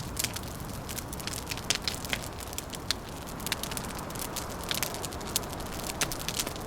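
Wood fire crackling, with many quick irregular pops and snaps over a steady low rushing noise.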